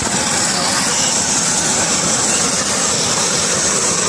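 Helicopter running close by: a loud, steady rush of turbine and rotor noise with a constant high whine over it.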